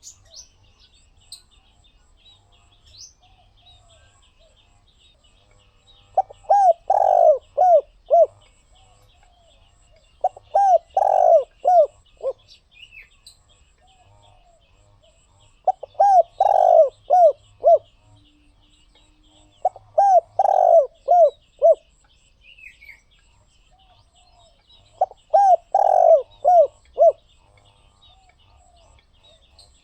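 Spotted dove cooing: five phrases, each a quick run of several rolling coos, spaced a few seconds apart. Faint high chirping of small birds runs underneath.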